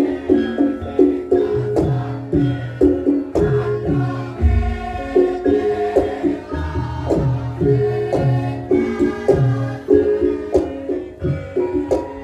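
Javanese gamelan music for a lengger dance: ringing struck metal notes repeat in a quick melodic pattern over regular low drum strokes.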